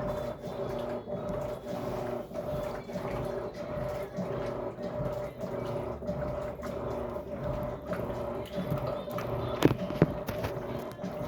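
Electrolux LAC13 top-loading washing machine running mid-wash: a steady motor hum over water sloshing in a regular pulse, with two sharp knocks a moment apart near the end.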